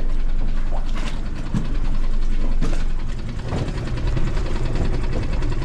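Boat engine running steadily at idle, with two sharp knocks about one and two and a half seconds in.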